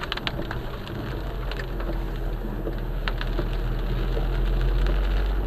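Steady low rumble of a vehicle on the move, picked up by a dashcam, growing slowly louder, with scattered light clicks and a faint high whine.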